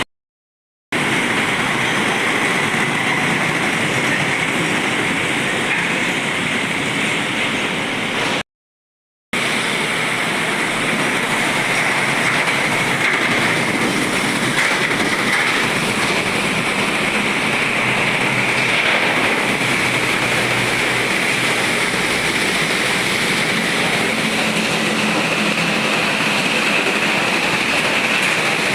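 Steady road noise from heavy trucks passing on a wet road, a continuous hiss of tyres on wet asphalt mixed with engine noise. The sound drops out completely twice, just after the start and about eight and a half seconds in.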